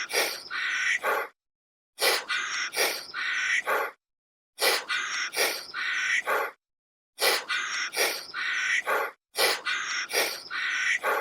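An animal's harsh calls, three or four in quick succession, in bouts about two seconds long separated by short gaps of complete silence; the same bout recurs five times.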